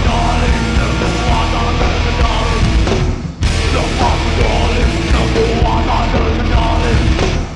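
Hardcore band playing loud heavy music live, with two short breaks: one about three seconds in and one near the end.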